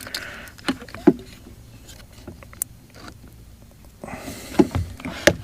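Scattered light clicks and knocks, busier and louder near the end, as the parts of a Mercury boat remote control are handled and fitted back into its housing.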